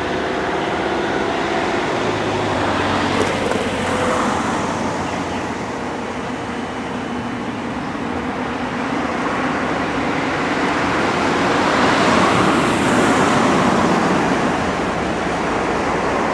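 Road traffic passing: a steady traffic noise that swells as vehicles drive by, about three to four seconds in and again around twelve seconds.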